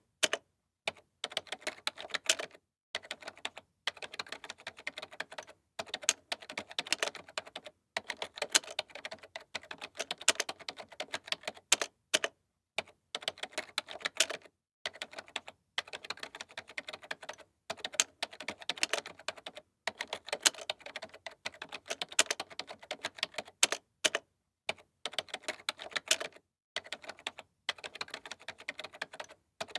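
Typing on a computer keyboard: quick runs of key clicks lasting a second or two, broken by short silent pauses.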